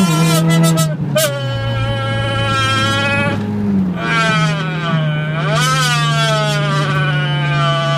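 A person imitating car engine noises with his voice: long buzzing, engine-like vocal tones that hold steady and then swoop down and back up like revving, with breaks about a second in and near the middle, over a steady low drone.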